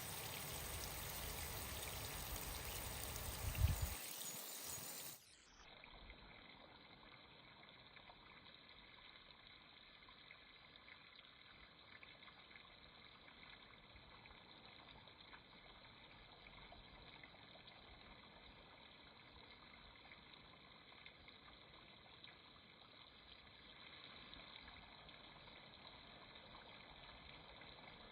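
Water running and trickling while toy cars are washed. It is steady and fairly loud for about five seconds, with one knock near four seconds in. After that it turns suddenly faint and dull for the rest.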